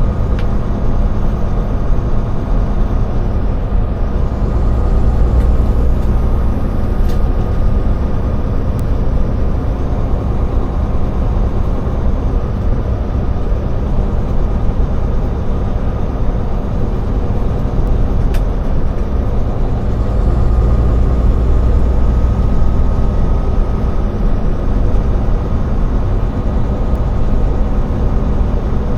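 Semi-truck tractor driving on the road, heard from inside the cab: a steady engine drone and road rumble, with the low rumble swelling twice.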